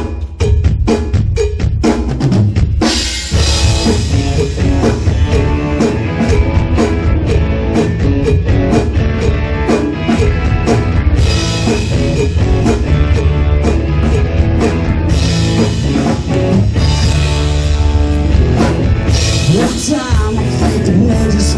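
Live rock band playing an instrumental intro, led by a drum kit with kick, snare and rimshots. Sharp drum hits open it, and about three seconds in the full band comes in with crashing cymbals and heavy bass.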